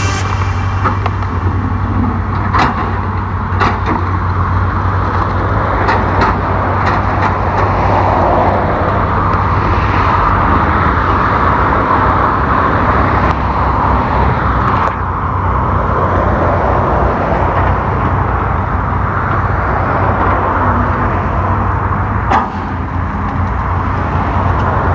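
Hitachi EX200 excavator's diesel engine running steadily with a constant low rumble, and a few short sharp knocks scattered through.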